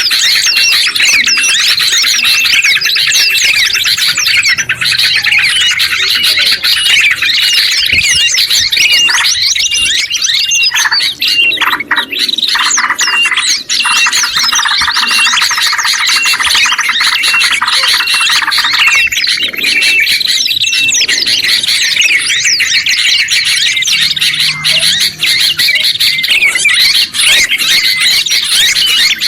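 Recorded Indonesian songbird mix: yellow-vented bulbul (trucuk), sooty-headed bulbul (kutilang), red-headed prenjak and oriental white-eye (pleci) calling over one another in a loud, dense chorus of chirps, chatter and rapid trills. A short note repeats at a steady pace through much of it.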